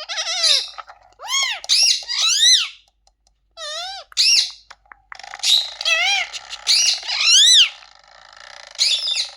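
Parrot giving runs of short, high whistled calls, each rising and then falling in pitch, with brief pauses between runs. A steady hiss-like noise runs under the calls for a few seconds in the middle.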